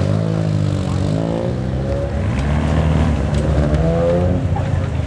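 The engine of a second-generation Mitsubishi Eclipse accelerating away. Its pitch climbs for about two seconds, drops at a gear change, climbs again, then falls off near the end.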